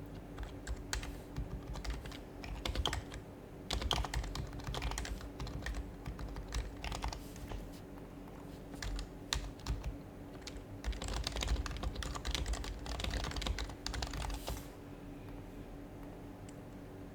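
Typing on an HHKB Professional HYBRID Type-S keyboard, whose silenced Topre capacitive switches give soft, muted keystrokes. The keystrokes come in quick bursts with short pauses and stop near the end.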